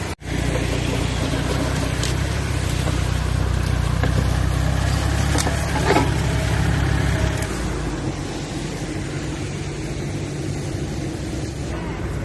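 A vehicle engine running steadily, with a low rumble that eases off about seven to eight seconds in. A few light knocks sound around the middle.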